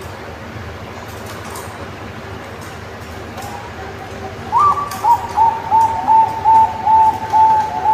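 Zebra dove (perkutut) cooing: a run of short repeated notes, about two or three a second, starts about halfway in. Only faint background hiss comes before it.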